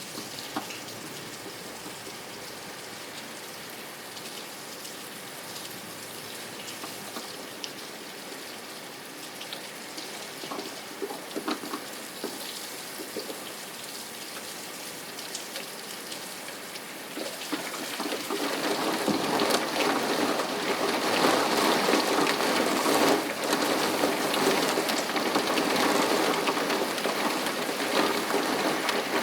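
Steady rain falling, with scattered individual drops ticking. About two-thirds of the way through it gets heavier and louder.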